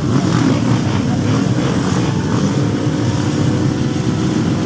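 Motocross motorcycle engines running loud and steady, the noise of bikes racing.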